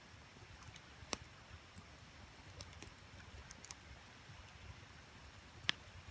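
Wood campfire crackling: scattered small ticks and snaps, with two louder pops, one about a second in and one near the end, over the low steady rush of the creek.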